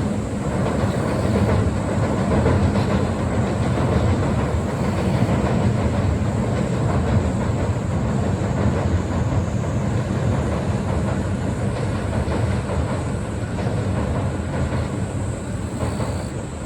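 A train running past close by, a steady rumble of wheels on rails that eases off near the end.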